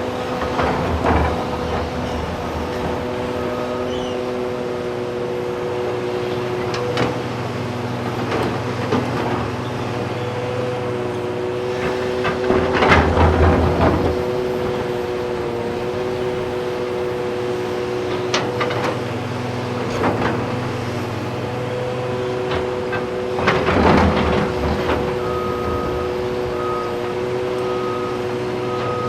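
Heavy diesel earthmoving machinery running steadily: excavators loading articulated haul trucks, with several louder noisy surges. A truck's reversing alarm starts beeping near the end.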